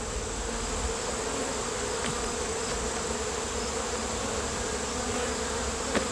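Honeybees buzzing steadily around an opened hive, many bees in the air at once. A faint click sounds about two seconds in and again near the end.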